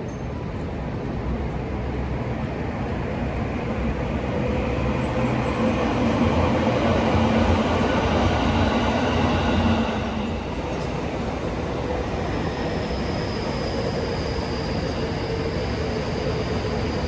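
A train passing, its noise growing to a peak about halfway through and dropping off suddenly, with a steady whine that carries on near the end.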